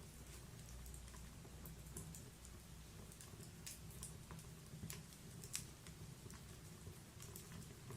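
Wood fire crackling softly: irregular small pops and snaps from burning logs, the sharpest snap a little past halfway, over a low steady rumble of the flames.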